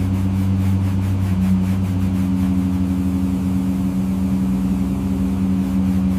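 Upholstery extractor's motor running with a steady low hum.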